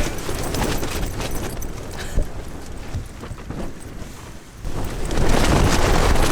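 Strong wind gusting on the mountaintop and buffeting the microphone, with a low rumble and rapid crackling flaps. It eases about four seconds in, then a stronger gust comes on and holds.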